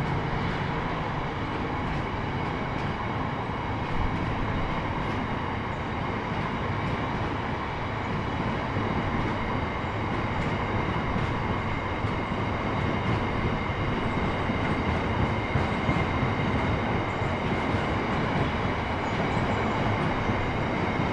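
A train running through the station: a steady rumble of wheels on rail, with a faint high whine over it.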